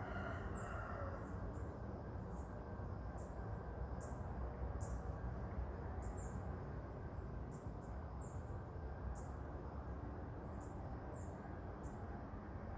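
Marmosets giving short, high-pitched chirping calls over and over, irregularly about one or two a second, over a low background rumble.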